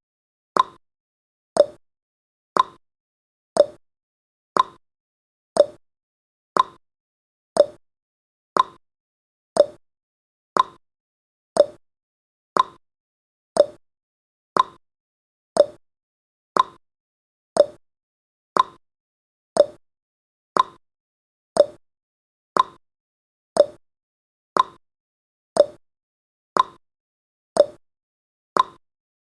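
Clock tick-tock sound effect marking each second of a countdown timer: short sharp clicks about once a second, alternating between a higher and a lower pitch.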